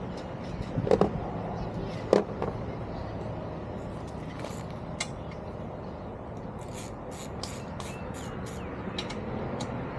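Two sharp knocks about a second apart, then a string of light, irregular clicks over a steady background hum: metal parts and hand tools being handled during car repair work.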